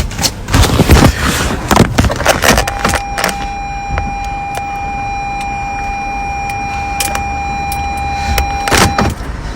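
Knocks and clatter of a car being handled, then a car's steady electronic warning buzz that holds one pitch for about six seconds, with a few clicks and a low rumble under it, stopping shortly before the end.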